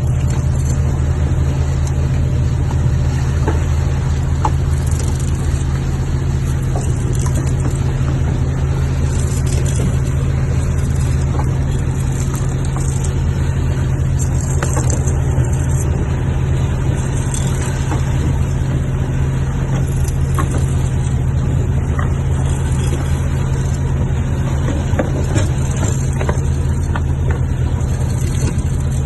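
Longline fishing boat's inboard engine running steadily: a loud, unchanging low drone, with a few faint knocks scattered through it.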